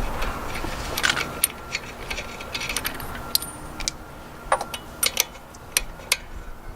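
A dozen or so scattered, irregular sharp metallic clicks and clinks over a steady low hiss, as small metal tools or hardware are handled.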